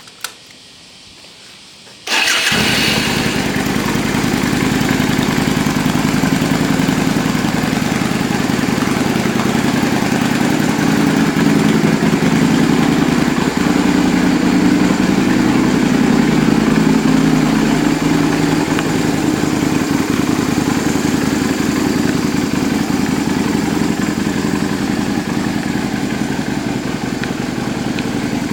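Yamaha Drag Star 250's V-twin with an aftermarket muffler starting up about two seconds in, after a couple of short clicks, then idling steadily.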